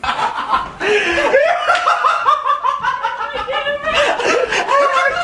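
Laughter: a rapid, high-pitched run of laughing notes that starts abruptly and keeps going, with a brief break just before one second in.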